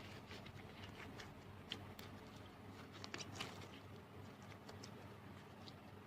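Slime being squeezed and stretched by hand, giving faint, irregular sticky clicks and pops, with a small flurry of them about three seconds in.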